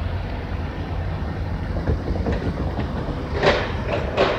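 VIA Rail passenger train hauled by EMD F40PH diesel locomotives, a steady low rumble as it moves away toward the station, with two sharp clacks near the end.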